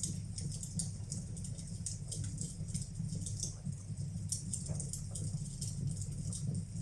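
Wood fire burning in a fireplace, crackling with many small irregular pops and ticks over a steady low rumble of the flames.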